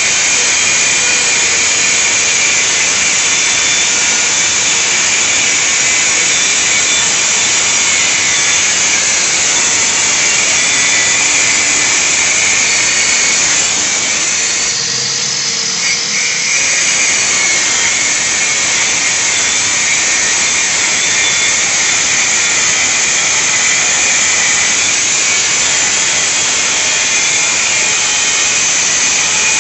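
Makita power tool with a diamond disc in a 45° bevelling jig, running steadily as it cuts a bevel along the edge of a ceramic tile, with a Makita vacuum drawing off the dust. The cutting noise eases for a moment about halfway through, then carries on.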